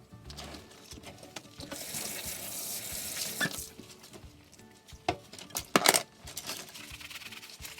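Water from a kitchen tap running into the sink for about two seconds, then a few sharp clinks of dishes being handled.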